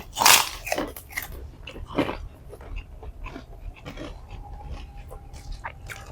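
A person chewing and biting into food close to the microphone: irregular crisp clicks, crunches and mouth smacks, loudest near the start and again about two seconds in.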